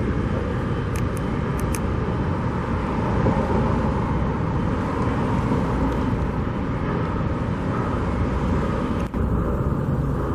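Steady outdoor background rumble and noise, with a few faint ticks about a second in and a brief drop near the end.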